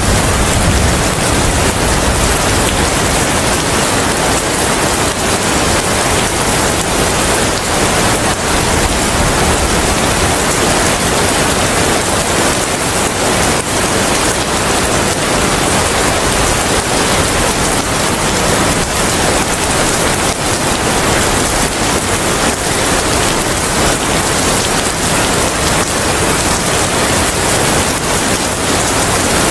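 Steady heavy rain falling, with a deep rumble in the first few seconds that fades into the even hiss of the downpour.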